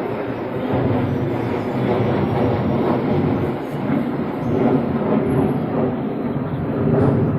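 Military aircraft flying overhead: loud, steady engine noise, heaviest in the low range.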